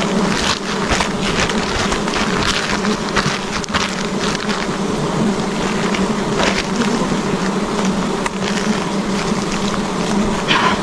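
A swarm of giant honey bees buzzing around their comb: a steady, dense drone, with scattered short crackles over it.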